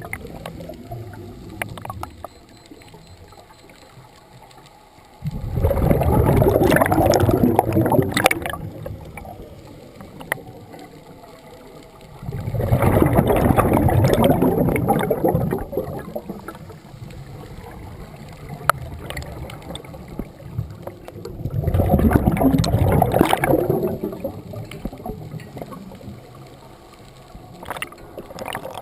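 Scuba diver breathing through a regulator underwater: three bubbling rushes of exhaled air, each about three seconds long and roughly eight seconds apart, with a quieter hiss between breaths.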